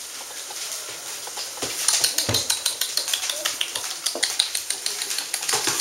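Red standard poodle puppies moving about, with a quick run of light clicks and taps that starts about two seconds in.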